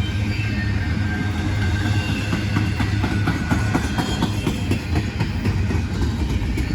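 Freight train passing, with a steady low rumble and a run of rapid wheel clicks over the rail joints through the middle.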